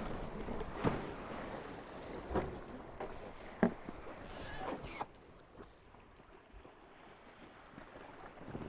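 Tornado catamaran under sail: a steady rush of water and wind past the boat, with three sharp knocks over the first four seconds. A brief high hiss follows, and then the rushing drops to a quieter level about five seconds in.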